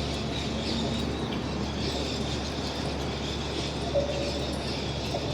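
Faint bird chirps over a steady low rumble, with one short call about four seconds in.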